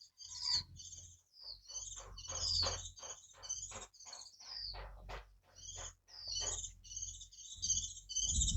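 Small birds chirping and twittering continuously, quick high-pitched calls one after another.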